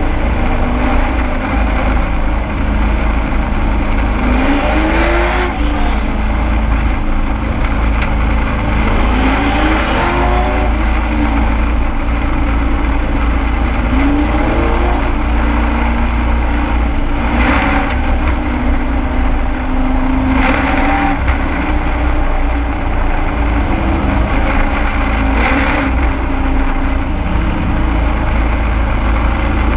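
Race truck's engine heard from inside the cab at racing speed, loud and steady. The engine note rises and falls every few seconds as the truck accelerates and backs off around the oval, over a constant low rumble and road and wind noise.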